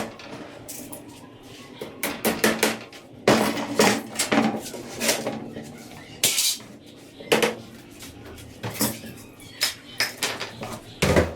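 Irregular clatter of hard objects knocking together: quick clusters of sharp knocks, a second or so apart.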